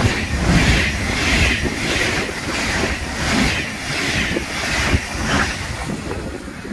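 Rhein-Ruhr-Express double-deck electric multiple unit passing close by, its wheels and bogies making a loud rush that pulses at a regular beat as each car goes past. It dies away near the end as the last car clears.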